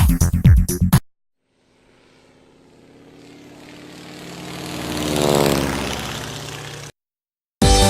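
A droning engine passing by: it grows steadily louder for a few seconds, its pitch drops as it goes past, and it cuts off suddenly.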